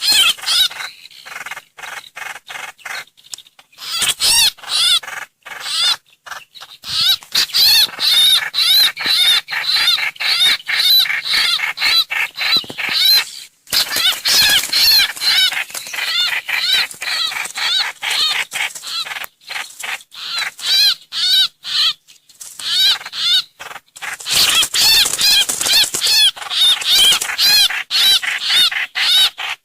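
A trao trảo (hoành hoạch) songbird calling, as on a bird-trapping lure recording. The calls are fast, loud runs of short, repeated chattering notes, broken by brief pauses.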